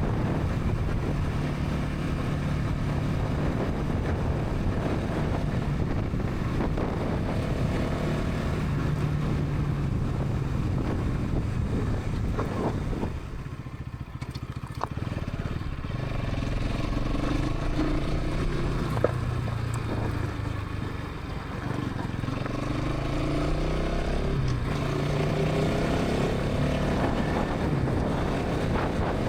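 Bajaj Pulsar NS 200's single-cylinder engine and exhaust running at highway speed. The engine note drops briefly about halfway through as the throttle eases off, then rises in pitch several times as the bike accelerates again.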